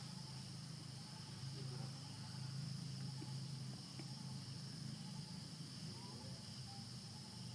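Steady high-pitched insect drone, like crickets or cicadas, over a low hum, with a few faint distant calls.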